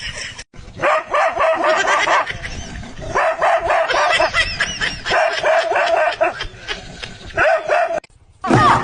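A dog vocalizing in a run of short, high, wavering calls, cut off briefly about half a second in and again near the end.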